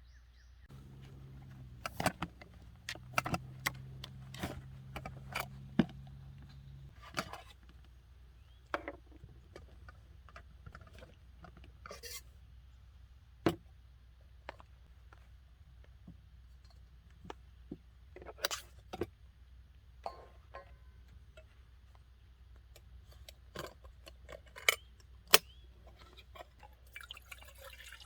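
Metal camp cookware and utensils clinking and clicking at irregular intervals as coffee is made, with a low steady hum under the first seven seconds or so.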